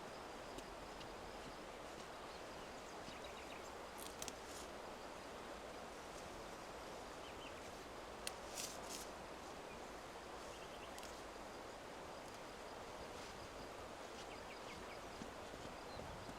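Faint, steady background noise, with a few brief soft clicks or rustles: two about four seconds in, a small cluster about halfway, and one more a little later.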